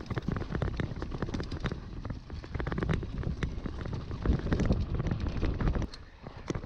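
Bicycle riding noise: wind rumbling on the microphone with many quick, irregular clicks and ticks from the bike, louder toward the middle and easing off near the end.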